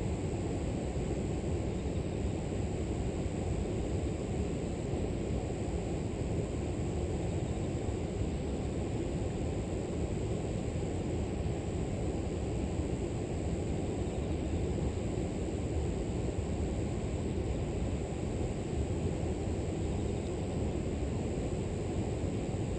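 Steady rushing of river water, with a continuous high-pitched trill of grass insects over it.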